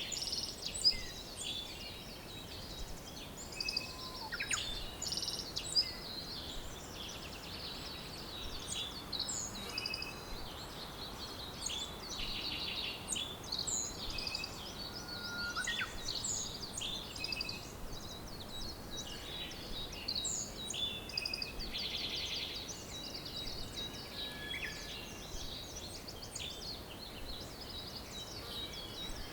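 Several songbirds singing and calling at once: a dense chorus of overlapping chirps, rapid trills and short whistles over a steady background hiss.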